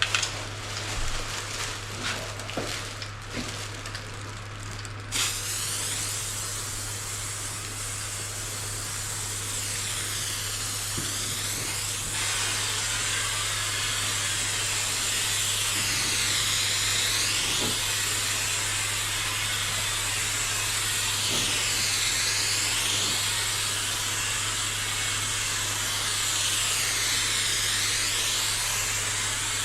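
SprayMax 2K epoxy primer aerosol can spraying: a steady hiss that starts abruptly about five seconds in and gets louder around twelve seconds, its tone sweeping up and down again and again. A few clicks come before it.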